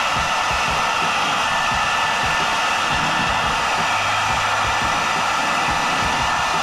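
Handheld hair dryer running steadily on its second speed setting, a constant rush of hot air with a faint motor whine in it.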